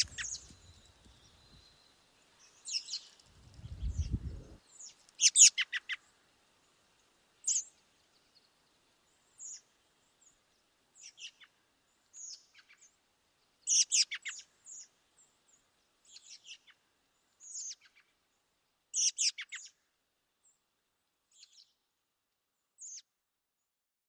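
Birds calling: scattered short, high chirps, with a few quick stuttering runs of notes, the loudest about five, fourteen and nineteen seconds in. A brief low rumble comes around four seconds in.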